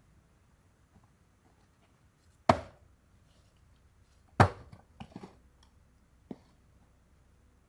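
Firewood being handled: two loud, sharp wooden knocks about two seconds apart, followed by a few lighter knocks.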